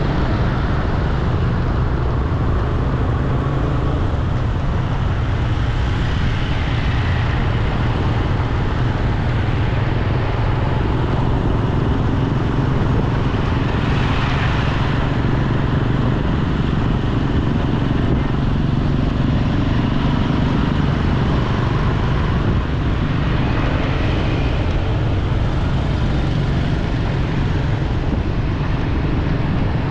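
Steady street traffic noise of motorbikes and cars, with a heavy low rumble and a few vehicles swelling louder as they pass.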